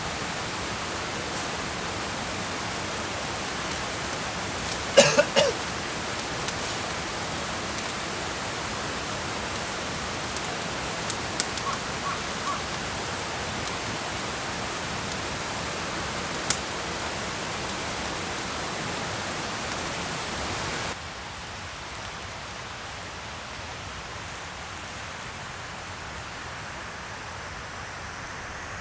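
Wood campfire burning over a steady hiss, with a few sharp crackles and pops. The loudest cluster of pops comes about five seconds in, and a single pop follows later. The steady hiss drops suddenly about three-quarters of the way through.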